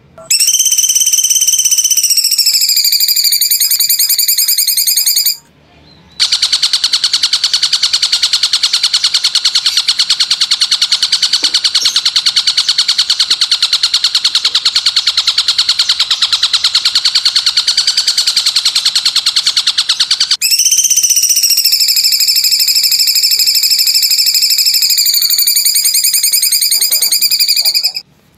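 A recorded bird call played as a song-tutoring (masteran) track, loud and continuous. A long whistled note with a slight dip in pitch breaks off briefly about five seconds in. It gives way to a rapid buzzing trill lasting about fourteen seconds, and then the whistled note returns.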